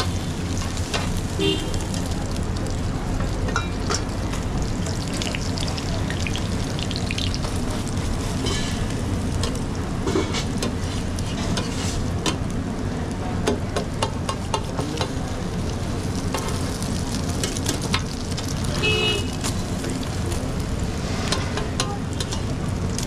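Food frying and sizzling in hot oil at a street-food stall, with frequent clicks and taps of utensils over a steady low hum.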